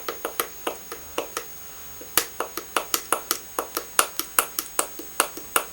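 A person making a series of sharp clicks with his own body, not with his fingernails. The clicks are scattered at first, then after about two seconds settle into a steady run of about three a second.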